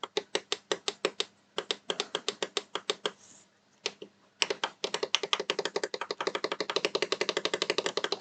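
Typing on a computer keyboard: rapid key clicks in quick runs, pausing for about a second and a half midway, then a longer, denser run.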